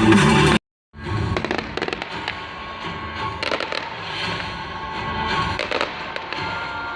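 Loud music cuts off abruptly under a second in. After a brief silence come fireworks going off: an irregular string of bangs and crackles.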